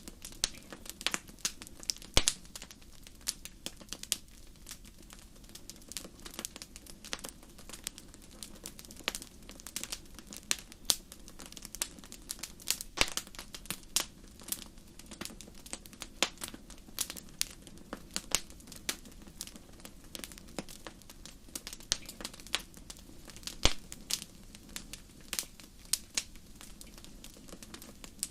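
Wood fire burning in a fireplace, with frequent sharp crackles and pops at irregular intervals over a low steady hiss of the flames.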